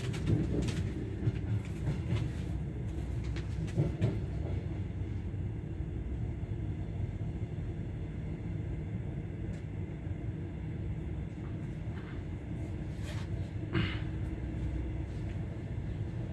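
Passenger train running along the track with a steady low rumble, broken by a few sharp knocks in the first seconds and another near the end.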